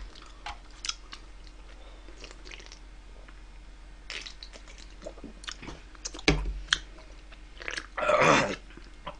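Close-up chewing of wood-fire roasted chicken, with scattered short clicks. A louder noisy sound of about half a second comes near the end.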